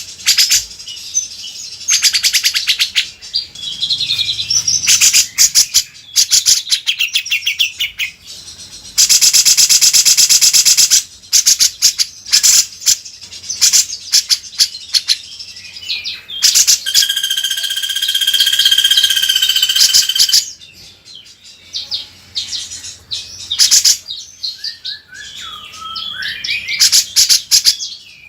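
A cucak jenggot (grey-cheeked bulbul) singing loudly in bursts of rapid chirps and trills. About a third of the way in comes a harsh buzzing rattle lasting about two seconds, and past the middle a run of held whistled notes.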